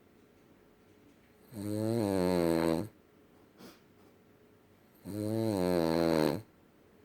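Half miniature boxer, half Boston terrier dog, a short-snouted mix, snoring heavily in its sleep. Two pitched snores, each just over a second long, come about three and a half seconds apart, with quiet breathing pauses between.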